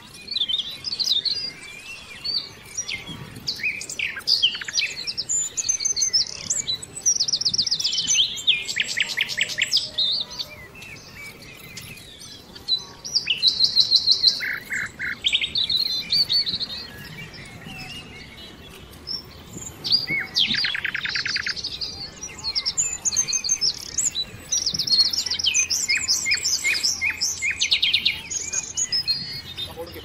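Small songbirds chirping and singing, with fast trills every few seconds and brief lulls between them.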